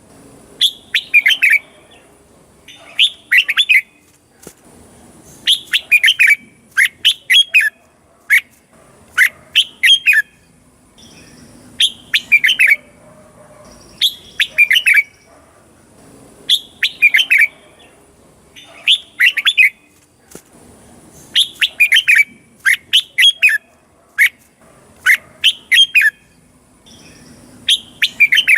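Red-whiskered bulbul singing: short phrases of quick chirping notes, repeated about every two seconds.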